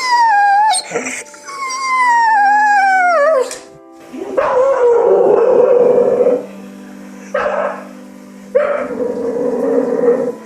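A dog crying: two long high whines that slide downward in pitch, then lower drawn-out howling cries, the later ones shorter, over background music.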